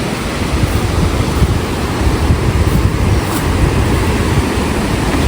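Steady rush of a river, with wind buffeting the microphone in uneven low rumbles that grow stronger about two seconds in.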